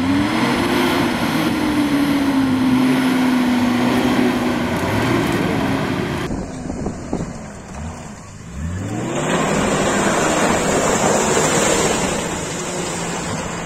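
Off-road 4x4 engine revving hard, its pitch rising and falling again and again. The sound changes abruptly about six seconds in, dips briefly, then the engine revs up again.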